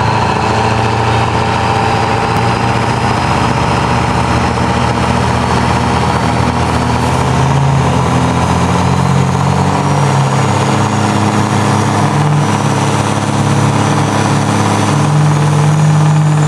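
Diesel drag-racing truck engine running near idle, steady and loud, its pitch stepping up a little a few times. A faint high whine joins in over the second half.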